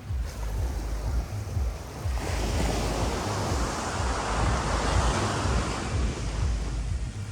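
Sea surf: a wave breaks about two seconds in, swells into a rushing wash and fades near the end. Wind buffets the microphone throughout with a low rumble.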